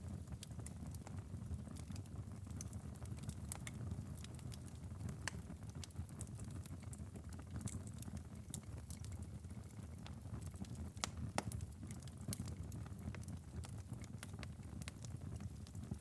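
Wood fire crackling in a fireplace: scattered sharp pops and snaps over a steady low rumble of the burning fire, with louder pops about five seconds in and again about eleven seconds in.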